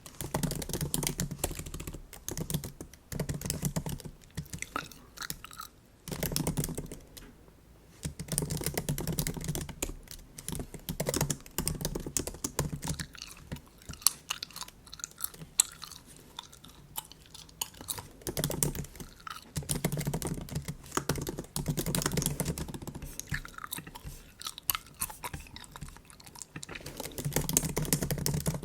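Bubble gum being chewed close to the microphone, with MacBook keyboard typing clicking in between.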